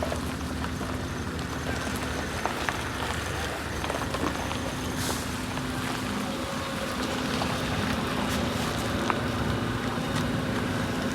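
A steady mechanical hum with a constant hiss of noise, and a few faint knocks.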